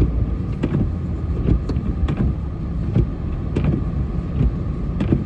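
Plow truck engine running with a steady low rumble, with irregular sharp clicks and knocks over it every half second or so.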